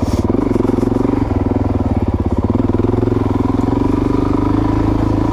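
Suzuki DRZ400S single-cylinder four-stroke engine running steadily at low revs, with an even pulsing beat.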